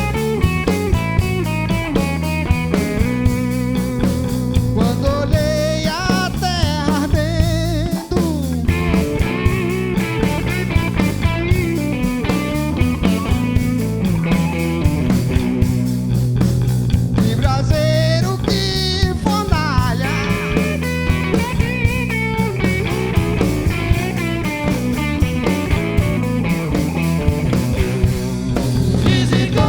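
A rock band playing an instrumental section live: electric guitar lead with bending notes over bass and a drum kit keeping a steady beat.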